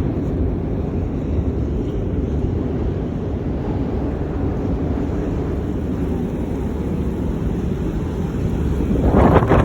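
Blizzard wind buffeting the microphone: a steady low rumble, with a stronger, brighter gust near the end.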